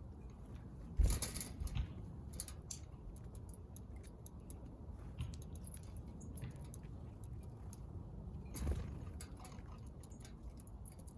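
Small birds pecking and cracking seed at a feeder: a scatter of light, irregular taps and clicks, with two louder wing flutters, about a second in and again about three-quarters of the way through.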